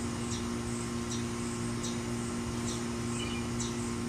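Yard ambience: a bird chirping short high notes over and over, about twice a second, over a steady low hum.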